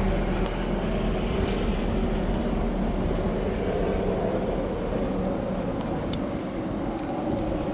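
Steady low rumble of wind on the microphone and road noise while riding an e-bike, with a low hum that fades out about half a second in.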